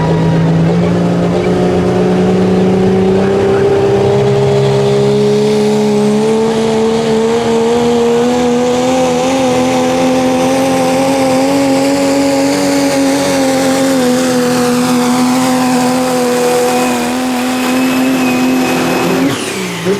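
A pulling vehicle's engine held at full revs under heavy load during a pull, its pitch creeping slowly upward and then holding. About a second before the end it drops off sharply as the throttle comes off at the end of the pull.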